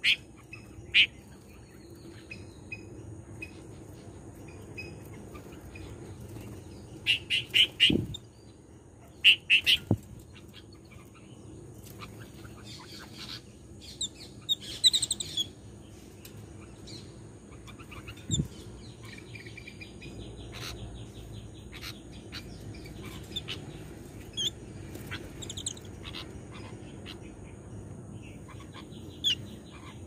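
Small birds calling in short bursts of chirps and chatter, loudest about seven to ten seconds in and again around fifteen seconds, with a brief fast rattle later and a few knocks in between.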